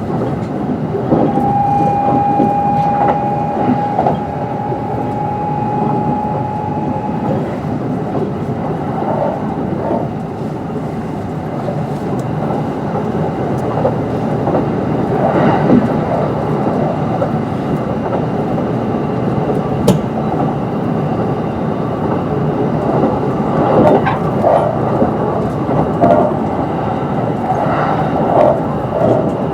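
Onboard running noise of a Kintetsu 22600 series limited express EMU at speed: a steady rumble of wheels on rail, with a thin high tone for several seconds near the start from its Mitsubishi IGBT-VVVF traction equipment, and several sharp knocks over rail joints later on.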